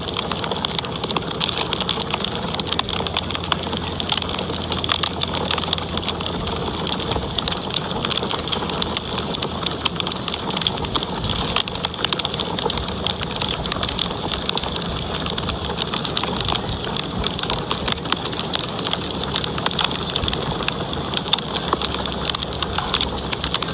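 Wood fire crackling in a fireplace: a steady hiss dense with small, rapid pops and snaps.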